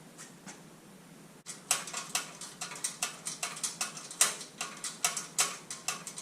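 Hand ratchet clicking in quick, uneven strokes as it works the bolts holding a Can-Am Maverick Turbo's muffler. The clicking starts about a second and a half in, at around three to four clicks a second.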